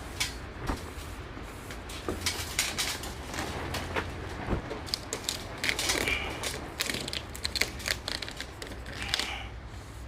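Vinyl car-wrap film being handled on a car panel: irregular crackling, rustling and tapping, busiest in the second half.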